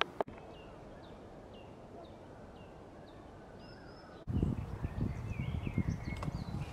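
Woodland birds singing. First comes a series of short, repeated high chirps, about two a second. After an abrupt change about four seconds in, a louder warbling song plays over low rustling and thumps.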